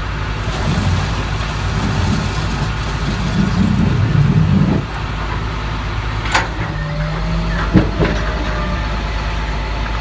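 A heavy truck's engine running, building louder for a few seconds and then easing off about five seconds in. Two or three sharp knocks or clanks come near the end.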